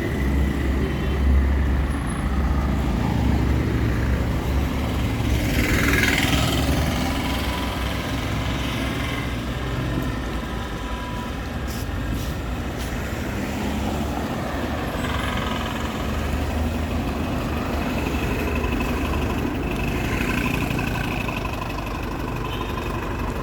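Street traffic: vehicle engines running and passing, with heavy vehicles such as trucks or buses rumbling low. A brief hiss comes about six seconds in.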